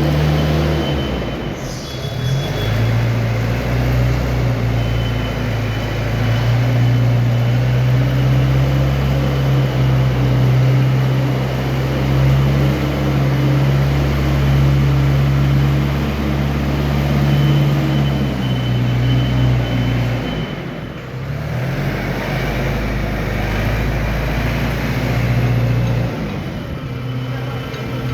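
Antonio Carraro tractor's diesel engine running steadily under way. Its note dips and changes pitch briefly about two seconds in and again about two-thirds of the way through, then settles back to a steady speed.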